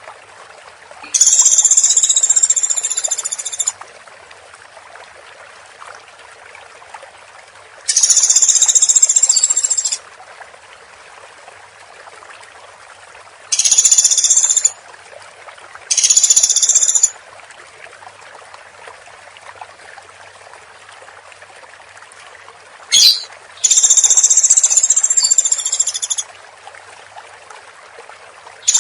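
Woodpecker calling in loud, rapid, high-pitched bursts, five in all, each one to two and a half seconds long, with steady hiss in the gaps. A single sharp click comes just before the last burst.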